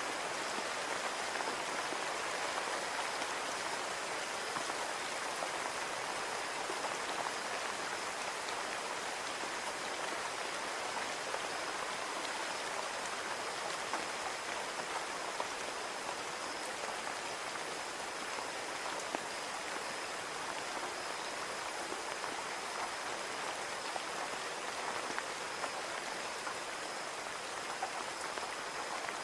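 Steady rain pattering on window glass, an even hiss with scattered sharp drop ticks.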